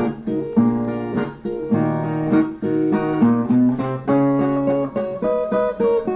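Brazilian viola playing an instrumental passage: a quick run of plucked notes and chords with no singing.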